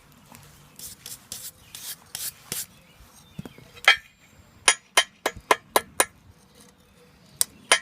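A blacksmith's hammer striking hot steel on an anvil, forging a small fork. A run of scraping strokes comes first, then one loud blow about four seconds in, followed by a quick series of about six ringing blows at roughly four a second, with a couple more near the end.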